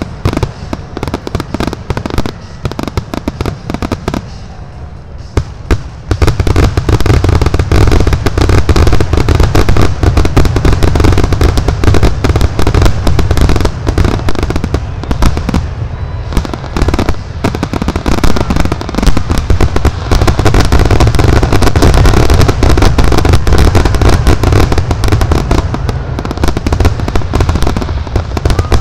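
Aerial fireworks finale: a rapid, dense barrage of shell bursts, bang upon bang. After a short lull about five seconds in, the bursts come thick and very loud.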